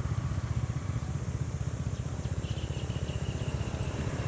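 Motorbike engine running, a low rumble with a fast, even pulse.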